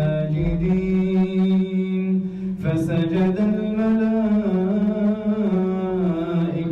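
A man's voice reciting the Quran in a slow, melodic chant, holding long drawn-out notes. There is a brief break about two and a half seconds in before the chant goes on.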